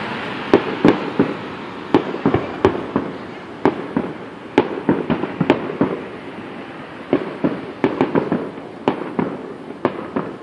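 Aerial fireworks display heard from a distance: a quick, irregular run of sharp bangs and crackles, several a second, over a continuous haze of noise.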